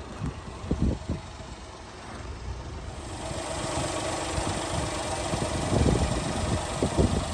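A 1996 Honda Acty mini truck's small 656 cc three-cylinder engine running at idle. About three seconds in the engine sound grows louder and fuller.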